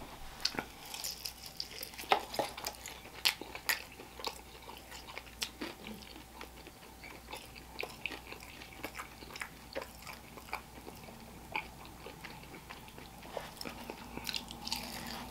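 Close-up chewing of a crispy glazed Korean fried chicken wing: irregular crunches and wet mouth clicks, with a few louder crunches in the first few seconds.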